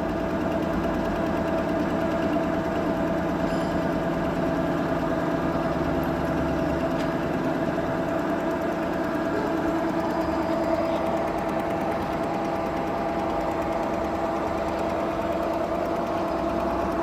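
Machine tool running steadily with a constant hum, cutting flats into a hexagon on a steel gear part.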